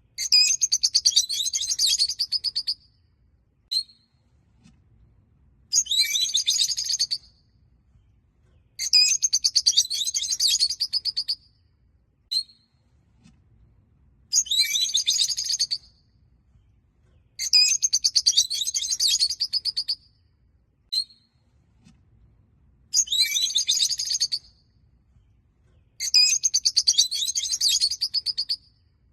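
Rosy-faced lovebirds chattering in bursts of rapid, shrill chirps, each burst lasting one and a half to two and a half seconds. The bursts are separated by short pauses and single brief chirps, and the same sequence repeats about every eight and a half seconds.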